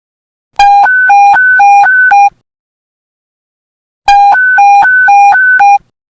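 Police panic-button emergency alert tone: loud electronic beeping that alternates rapidly between a lower and a higher pitch, sounding in two bursts of under two seconds each, the second starting about three and a half seconds after the first.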